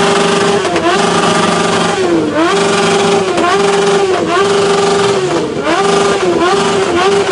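The 650's engine is held high against the rev limiter in long steady stretches, each broken by a quick dip and snap back up. The dips come about six times, closer together near the end. It is revved hard enough that the host calls a stop before it catches fire.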